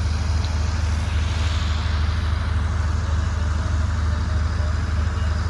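Heavy crane's diesel engine running steadily: an even, deep rumble with a fast pulsing beat.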